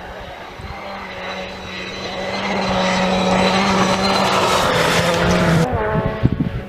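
Rally car on a gravel stage approaching flat out, its engine note held steady and growing louder over the first few seconds. Near the end the driver lifts off sharply: the engine note drops suddenly and a few sharp cracks follow.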